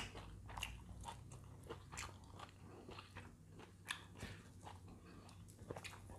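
Faint, close-up chewing of food, with scattered small crunches and wet mouth clicks.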